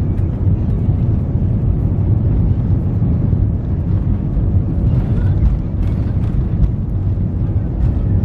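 Airliner in flight: a loud, steady low rumble of jet engine and airflow noise.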